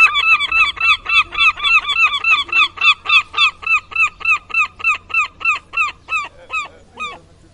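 Seagull long call: a fast series of repeated, pitched yelping notes, about three to four a second, slowing and fading near the end.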